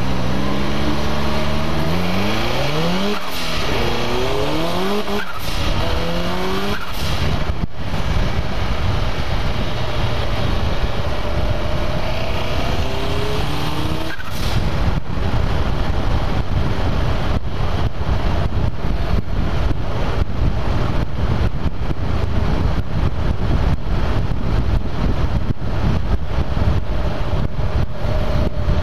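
Turbocharged car engine under hard acceleration, its pitch climbing and then dropping at each gearshift, twice in the first seven seconds. After that comes a steady rush of engine, wind and road noise at speed, with rapid wind buffeting on the hood-mounted microphone in the second half.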